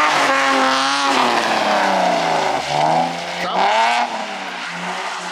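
Car engine revving hard up and down while drifting, its pitch rising and falling several times, with tire noise on wet pavement underneath.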